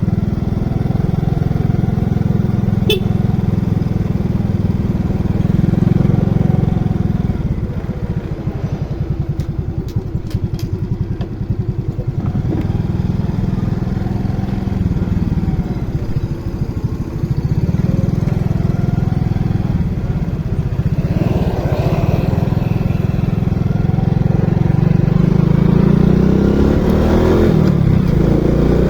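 Motorcycle engine running on the move, its pitch rising and falling with the throttle, and climbing near the end as it accelerates.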